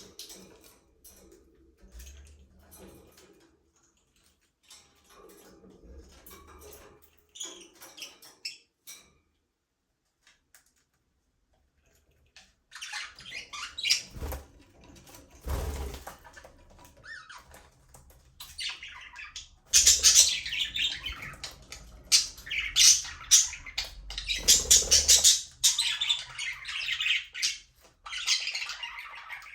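Budgerigars chirping and chattering: a few scattered, quieter calls with a short lull, then a flock chattering loudly and continuously from about halfway through.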